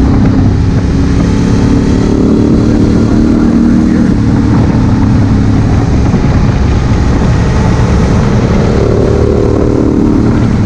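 Honda Africa Twin CRF1000L's parallel-twin engine running steadily under way, heard from the rider's helmet-mounted camera with heavy wind noise over the microphone.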